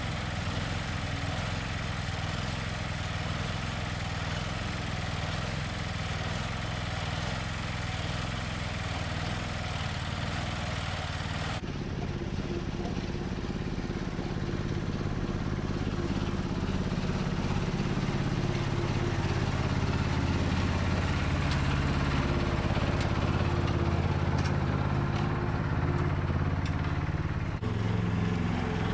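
Bolens H16XL garden tractor engine running steadily, in three edited stretches that cut abruptly about twelve seconds in and again near the end. The engine is a little louder in the middle stretch.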